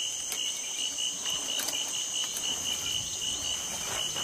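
Insects chirring in the bush: a rapid, even pulsing trill with a steady higher hiss above it, typical of crickets.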